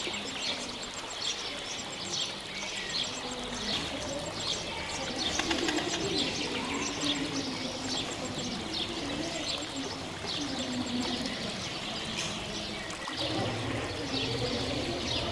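Caged birds chirping: many short, high chirps repeat throughout, with a lower wavering sound through the middle.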